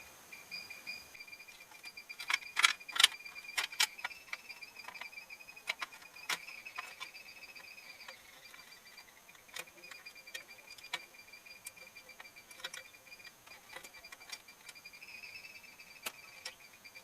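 Scattered sharp clicks and taps, like small metal parts or tools knocking together, clustered about two to four seconds in and occasional afterwards. They sit over a steady, rapidly pulsing high chirp.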